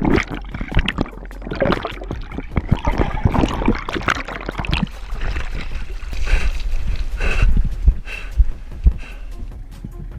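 Water splashing and sloshing in irregular bursts, heard close up.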